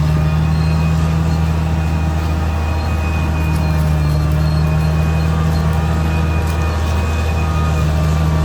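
Caterpillar D6R XL bulldozer's diesel engine running at a steady, unchanging pitch.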